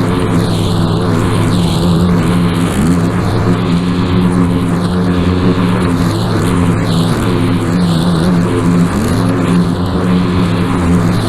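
Gas-powered string trimmer running at high speed, its pitch dipping briefly a couple of times as it takes load, with a rhythmic swish of the line cutting grass about once a second.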